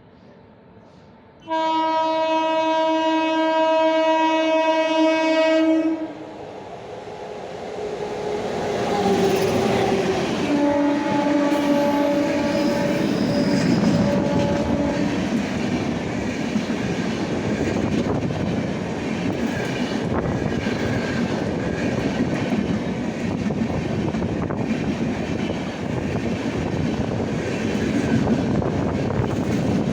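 Express train passing at high speed. The locomotive horn sounds loudly about a second and a half in, holds for about four seconds and cuts off, then sounds again lower in pitch for several seconds. It gives way to the steady rumble and wheel clatter of the coaches rushing past.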